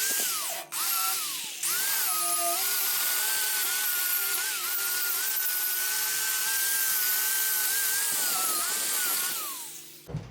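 Power grinder blending a weld on a metal dirt bike frame: a steady high whine with a grinding hiss. It cuts out briefly under a second in and spins back up, then winds down with falling pitch near the end.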